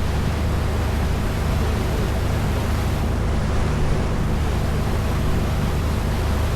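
Boat engine running steadily under way, with a low steady hum, over the rush of water and wind on the microphone.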